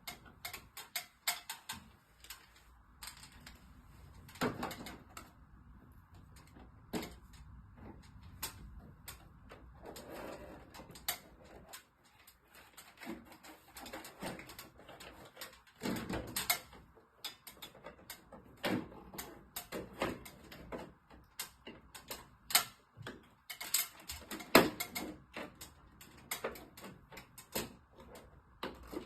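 Irregular clicks, taps and knocks of hand work on an air conditioner's indoor unit, as parts and fittings are handled during a control-board replacement, with several louder knocks in the second half.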